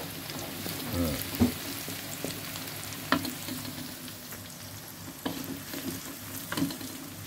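Shallots and garlic sizzling in hot oil in a wok while being stirred with a wooden spatula, which knocks and scrapes against the pan a few times.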